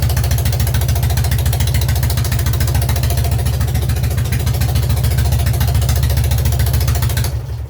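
Freshly rebuilt K-750 motorcycle's side-valve flat-twin engine idling steadily with an even rapid beat, then shut off and dying away near the end.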